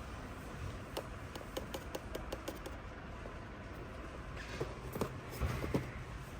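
Small toys being handled: a quick run of about eight light clicks, roughly five a second, then a few heavier knocks about two seconds later.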